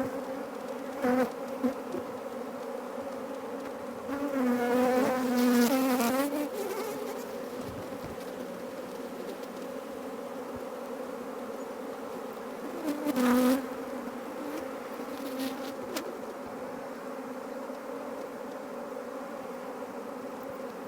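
A honeybee colony buzzing in a steady hum around an opened hive, the bees stirred up and unhappy at the disturbance. Single bees fly close past the microphone with a louder, wavering buzz about four seconds in, again around thirteen seconds, and briefly near the start.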